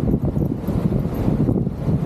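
Loud, steady roar of a waterfall, a dense rushing noise heavy in the low end with a rough, rumbling texture.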